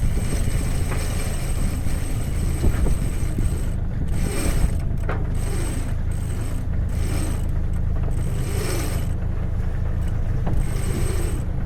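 A sailing yacht's inboard diesel engine running steadily, with repeated short creaking squeaks about every second or two.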